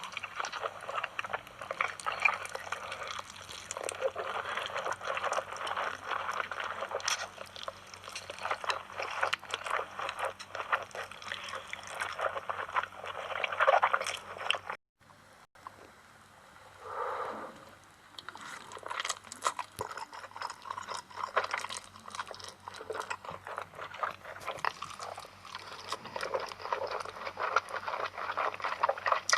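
Close-miked eating of noodles: a steady run of wet slurping, smacking and chewing. It stops abruptly for about a second near the middle, then resumes.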